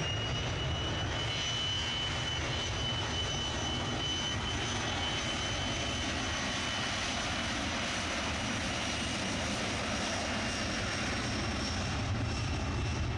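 Jet airliner engines running at high power: a steady high whine holding over a broad rushing engine noise.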